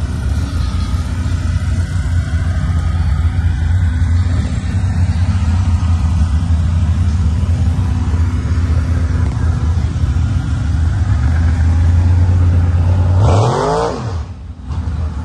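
A car engine idling with a deep, steady rumble, then revved sharply once about thirteen seconds in, after which the sound drops away.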